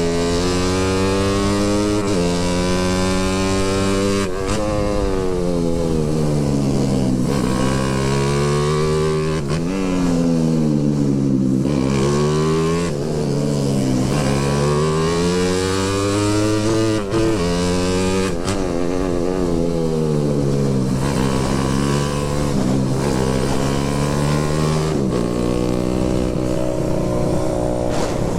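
Motorcycle engine under way, its pitch rising and falling as the rider accelerates and eases off, with several sudden drops like gear changes. A steady hiss of wind and wet road runs underneath.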